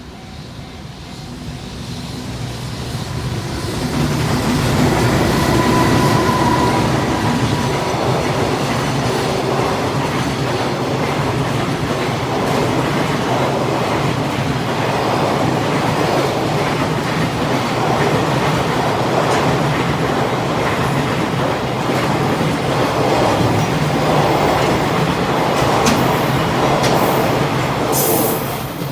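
JR Freight EH500 electric locomotive and a long rake of Koki container wagons passing: the sound builds over the first four seconds into a steady loud rumble of wheels running on the rails, then falls away sharply near the end as the last wagon goes by.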